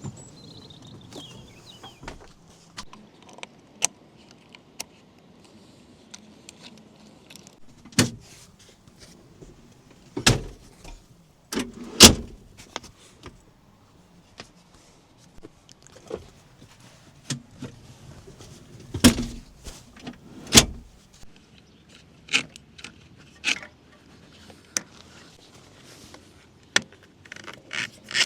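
Camp being set up beside a motorhome: scattered metallic clanks, rattles and knocks with a few heavier thuds. The loudest thud comes about 12 seconds in, and there are more around 19 and 21 seconds.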